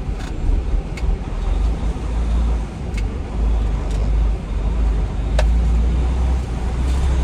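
A semi truck's engine running, heard as a steady low drone from inside the cab while the rig moves, with a few light clicks.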